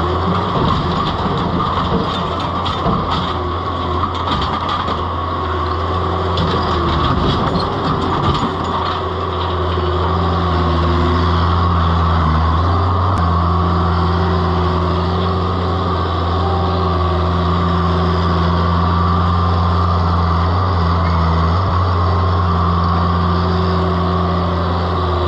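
Mini track loader's engine running steadily under load, with a steady high whine over the engine note. Knocks and scraping from the machine working come through during the first several seconds.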